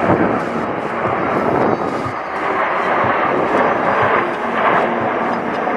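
Aircraft engine noise from a plane in flight: a loud, steady rushing sound.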